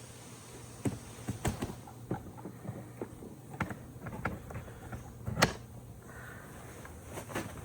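Irregular light clicks and knocks of objects being handled, with one sharper knock about five and a half seconds in.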